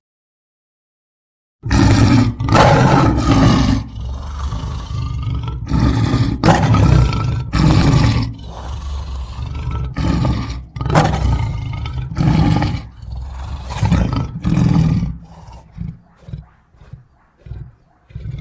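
A large beast's roaring and snarling sound effect: a dozen or so loud roars in quick succession, tailing off into shorter, fainter growls near the end.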